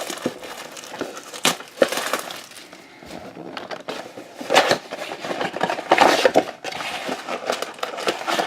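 Packaging of a box of trading cards being torn open: irregular crinkling, rustling and tearing, with a few louder rips.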